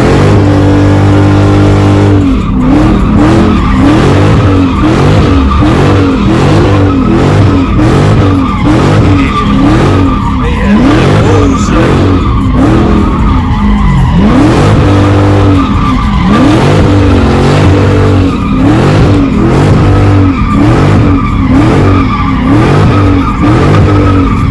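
V8 muscle car engine held at high revs, its pitch rising and falling over and over, while the rear tyres squeal and skid continuously as the car spins donuts; the sound cuts off sharply at the end.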